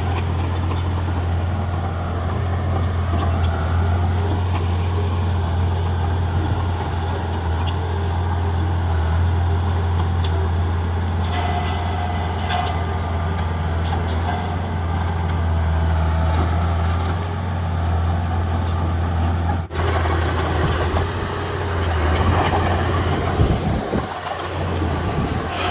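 Heavy diesel engine of earth-moving machinery running steadily, with a deep hum and a momentary break about three-quarters of the way through.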